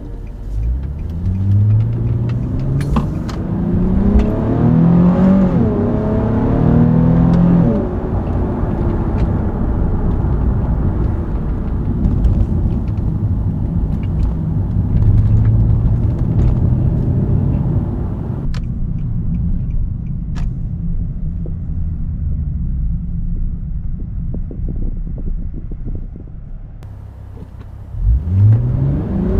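Nissan 370Z Nismo's naturally aspirated 3.7-litre V6 pulling away, its note rising in pitch and dropping back at gear changes of the 7-speed automatic. It then settles into a steady cruise that goes quieter for several seconds, and starts climbing hard again just before the end.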